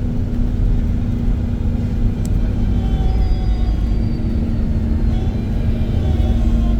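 Iveco Crossway LE Line 14.5 m bus running at a steady pace: a continuous low engine and road rumble with a steady drone, and a faint high whine that starts about three seconds in and falls slowly in pitch.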